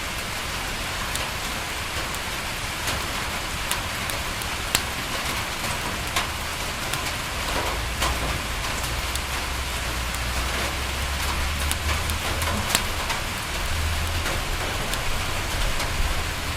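Steady rain pattering on a window, with scattered sharp crackles from a wood fire. A low rumble comes in about halfway through and grows louder near the end.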